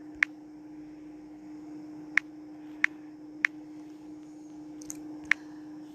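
Phone on-screen keyboard tap clicks, five short sharp clicks spaced irregularly about a second apart, over a steady low hum.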